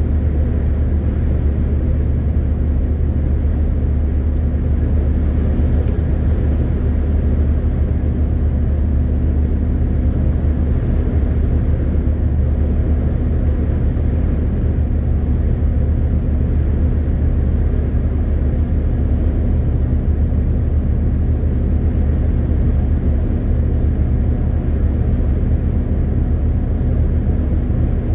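MAN TGX 18.520 truck's inline-six diesel engine running steadily under way, a deep even drone with road noise and no change in pitch.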